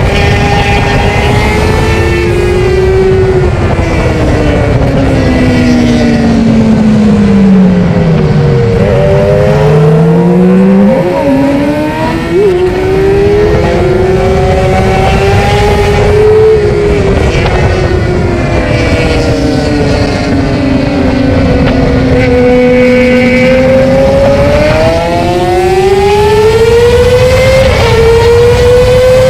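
Yamaha R6 600 cc inline-four sport bike engine revving hard on track, heard from a tail-mounted microphone. The engine pitch climbs and falls repeatedly through the gears. About eight seconds in it drops to its lowest revs while braking, then there are quick throttle blips on the downshifts, and it pulls back up to high revs near the end.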